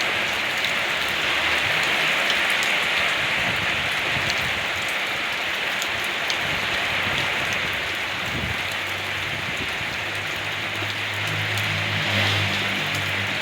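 Steady rain falling, an even hiss with scattered drop ticks. A low engine hum joins about two-thirds of the way in.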